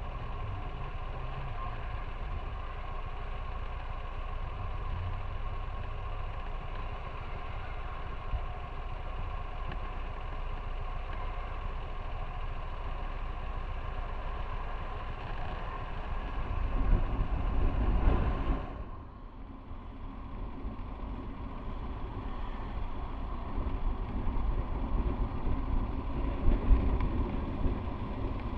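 Motorcycle engine and road noise heard on board while riding. The sound swells louder about two-thirds of the way in, drops off suddenly, then builds up again.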